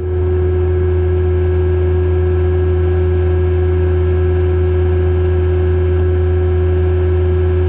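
Skid steer engine running steadily at constant speed with a steady whine over its low drone.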